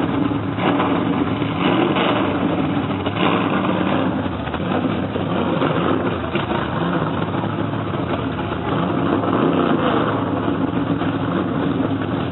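Monster truck engine running loudly and steadily, its level swelling slightly now and then.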